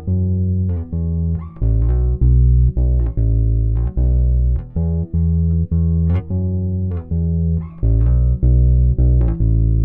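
Electric bass guitar playing a line of plucked notes, recorded direct through a Warm Audio WA-412 mic preamp with no EQ or compression.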